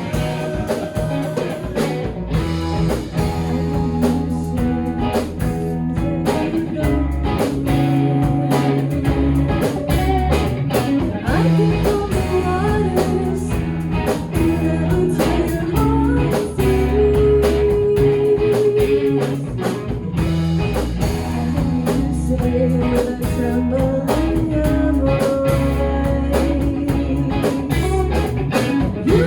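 Live band playing a song, with guitar, drum kit and singing.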